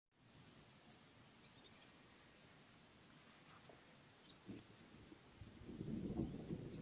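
A bird calling: short, high chirps repeated about twice a second. A low rumbling noise comes in about five and a half seconds in.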